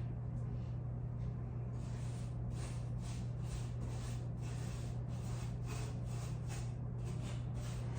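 Paintbrush strokes, short repeated swishes of bristles across a painted surface, about two to three a second, over a steady low hum.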